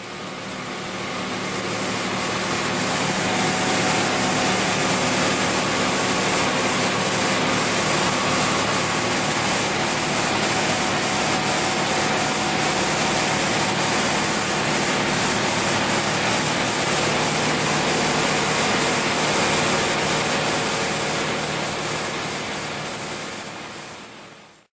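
Twin Yuchai YC6T480C six-cylinder turbocharged marine diesels running at full throttle: a loud, steady rush of exhaust and engine noise with a low hum beneath. It fades in over the first couple of seconds and fades out near the end.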